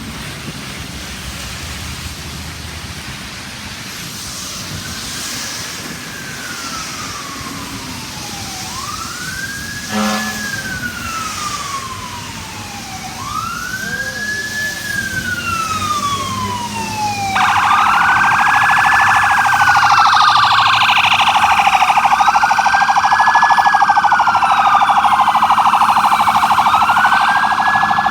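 Emergency vehicle electronic sirens on fire apparatus and an ambulance responding: a wail that rises quickly and falls slowly, repeating about every four and a half seconds, with a short horn blast about ten seconds in. About seventeen seconds in, a second, much louder siren starts a rapid warble on top of the wail as the units come close.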